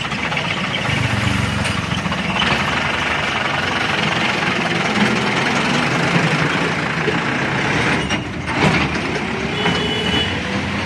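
Diesel tractor engine running steadily under load. There is a short dip about eight seconds in, followed by a sharp knock.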